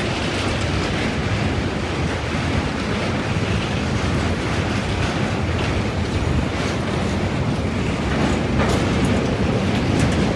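Steady running noise of a MEMU electric passenger train crossing a steel truss rail bridge, heard from inside the coach: a continuous rumble of wheels on rail, with a few light clicks near the end.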